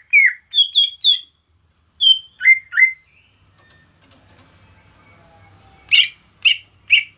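Cucak ijo (green leafbird) singing: loud, short whistled notes, several sliding down in pitch, in quick runs, with a gap of about three seconds before it starts again near the end. A steady high hiss runs underneath.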